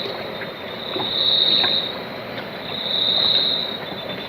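High-pitched insect buzzing that swells and fades in waves about every two seconds.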